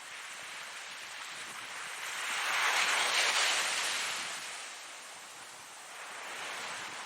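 Ocean waves washing onto the shore: a hiss of surf that swells to a peak about three seconds in and fades, followed by a smaller swell near the end.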